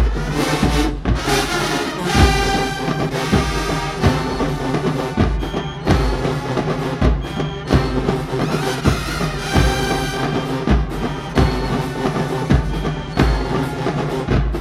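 HBCU marching band playing: loud brass over a steady drumline beat, with bass drum hits.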